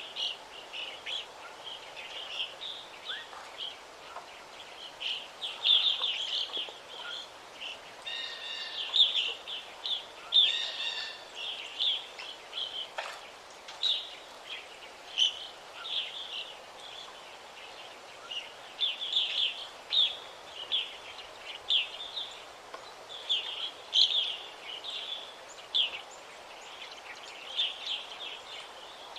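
Forest songbirds chirping and trilling, with short high-pitched calls following one another throughout, over a steady faint hiss.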